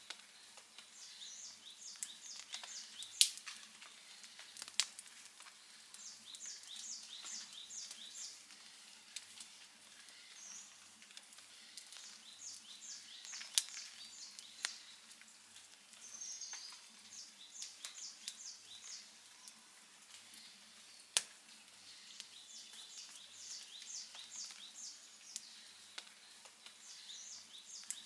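Wood campfire crackling, with scattered small ticks and four sharp pops standing out. A series of quick, high chirps repeats every few seconds behind it.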